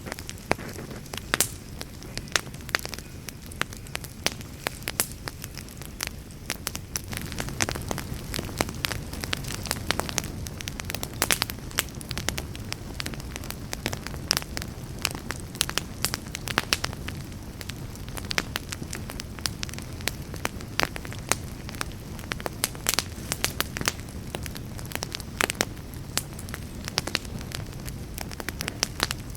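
Fire burning in a fireplace, crackling with frequent irregular sharp pops over a low steady rumble of the flames.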